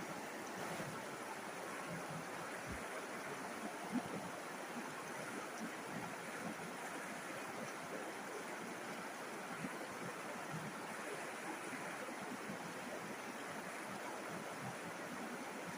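River water flowing steadily, an even rushing and babbling, with one brief tap about four seconds in.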